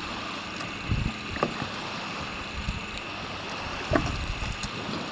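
Water splashing and sloshing around kayaks over a steady hiss, with a few sharper splashes, the loudest about a second in and about four seconds in.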